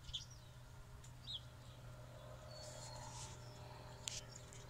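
Quiet farmyard ambience with a few short bird chirps, one right at the start and another about a second in, over a faint steady low hum.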